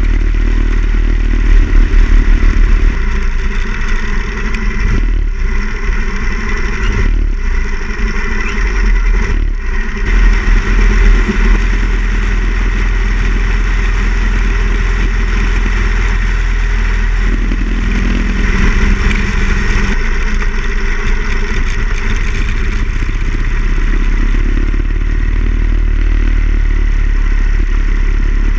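Harley-Davidson Ironhead XL1000's air-cooled V-twin running under way, with wind rushing over the bike-mounted camera. In the first ten seconds it pulls up through the gears, with three brief dips in the sound at the shifts, then holds a steady cruise.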